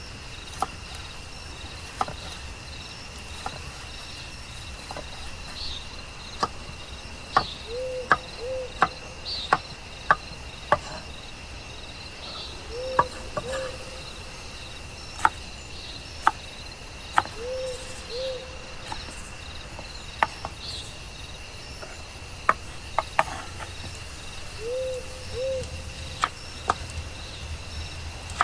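Steady high-pitched insect drone, with a low two-note animal call repeating about every four to five seconds and scattered sharp clicks and knocks.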